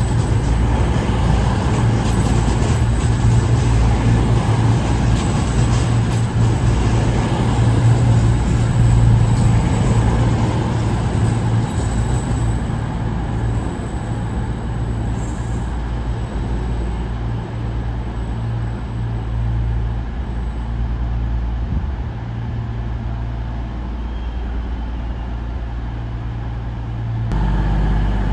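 Diesel train engine running steadily with a deep hum, easing a little in the second half, and changing abruptly near the end.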